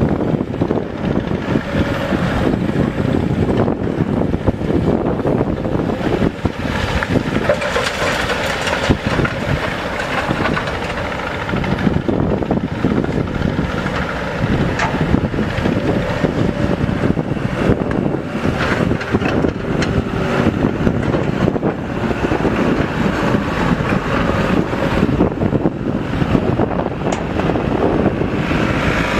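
Diesel engine of heavy equipment (an excavator or a dump truck) running steadily.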